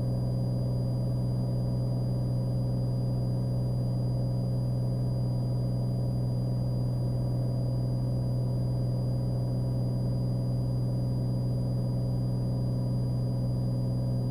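Cessna Skylane's piston engine and propeller droning steadily in the cabin under climb power.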